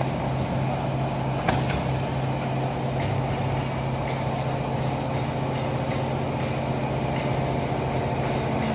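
Automatic baler running with a steady low hum, with a sharp knock about a second and a half in and a few fainter knocks after it.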